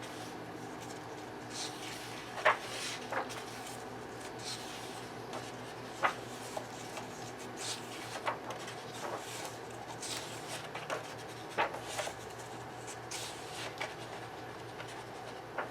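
Pages of a paperback coloring book being turned, giving irregular soft paper brushes and flicks every second or two.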